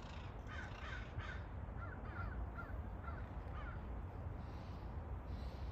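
A bird calling in a quick series of short calls, about two a second, which stop a little past halfway through.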